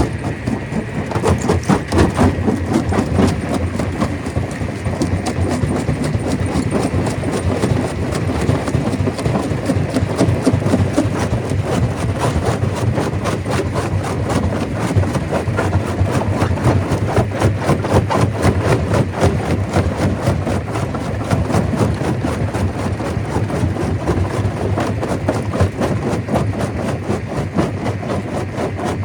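Stone crusher running, with rock knocking and clattering continuously and densely over a steady low drone of the machinery.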